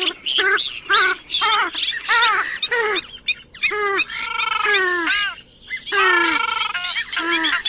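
Purple swamphen calling: a quick series of short calls, several a second, with two longer quavering calls about four and six seconds in.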